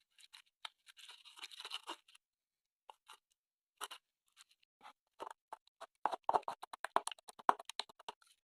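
Irregular crisp crackling and clicking, with a short scratchy rustle about a second in and the densest, loudest run of clicks from about six to seven and a half seconds in.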